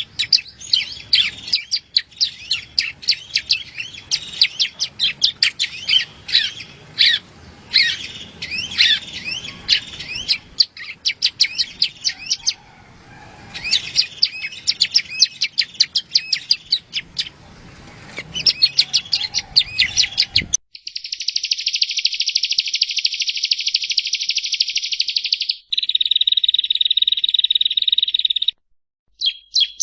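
Yellow-bellied prinia (prenjak rowo) song: rapid strings of high chirping notes, then about two-thirds through a cut to a cleaner recording of a continuous fast trill, followed by a lower, steadier trill and a short pause before more trilling.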